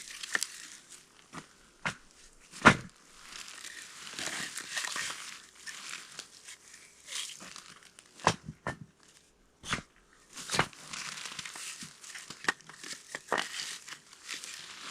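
Rustling and crinkling of material being handled, broken by sharp knocks, one much louder knock about two and a half seconds in.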